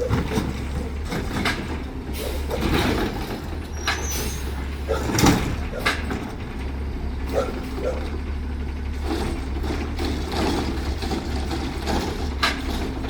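Garbage truck with its engine running as a steady low drone, and a series of sharp clanks and knocks from its machinery, the loudest about five seconds in.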